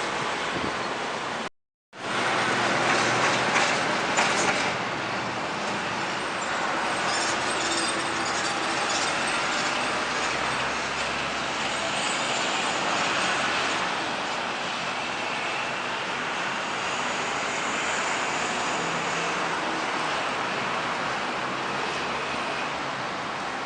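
Road traffic at a city intersection, with heavy trucks and tractor-trailers passing. The sound cuts out sharply for a moment about two seconds in.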